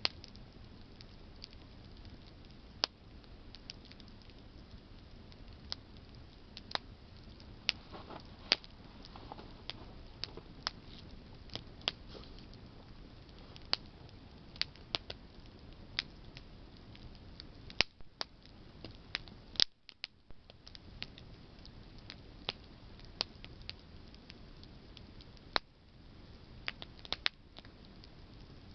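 Campfire of burning branches crackling: irregular sharp pops and snaps, some much louder than others, over a low steady hiss of the flames.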